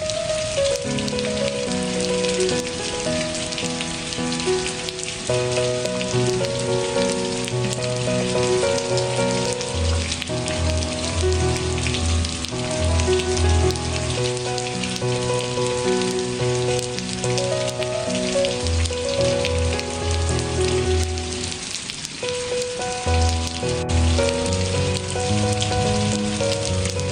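Steady rain pattering, mixed with soft ambient music of slowly changing held notes over a low bass line.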